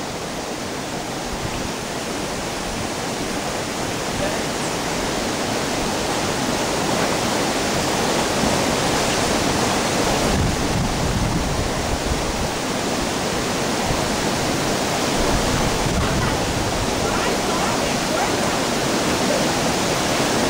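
Waterfall rushing: a dense, steady roar of falling water, growing a little louder over the first few seconds.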